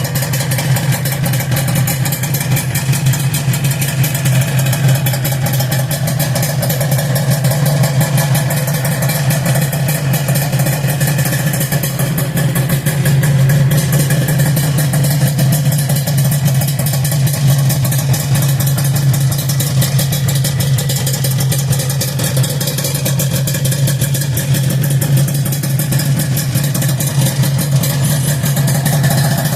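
1983 Suzuki RG250γ's two-stroke parallel-twin engine idling steadily through an aftermarket exhaust.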